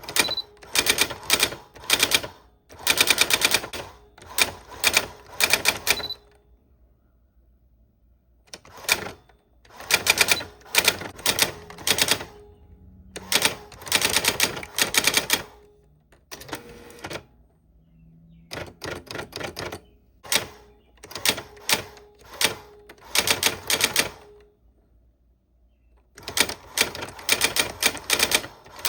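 Old typewriter being typed on: runs of fast, sharp key strikes in bursts of a second or two, with short pauses between them and two longer pauses of about two seconds.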